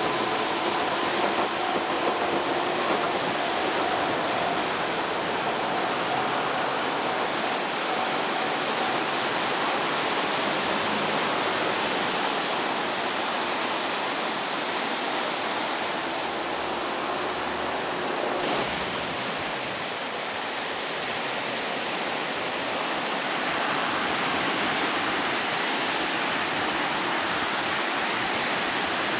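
Surf from a typhoon swell breaking and washing on the beach: a continuous heavy rushing hiss with no distinct wave-by-wave rhythm.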